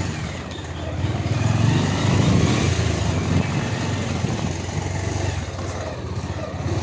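Motorcycle engine running while riding along a road, steady, picking up a little about a second and a half in.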